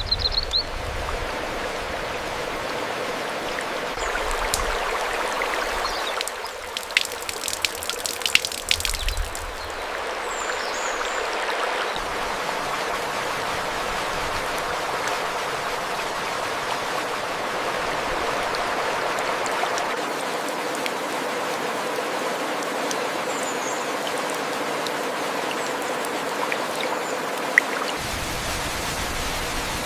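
Flowing stream, a steady rush of water, with a cluster of sharp drips about a quarter of the way in and a few brief high bird chirps.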